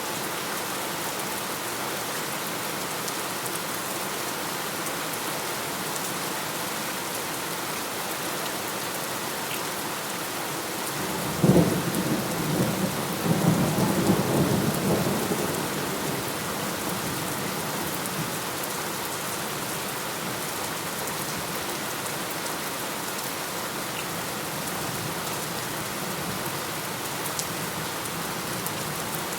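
Steady rain falling, with a single thunderclap about eleven seconds in: a sharp crack followed by a low rumble that rolls on for several seconds and fades back into the rain.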